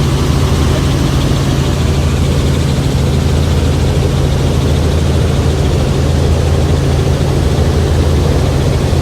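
Helicopter engine and rotor drone heard from inside the cabin: a loud, steady low hum under a constant rush of noise.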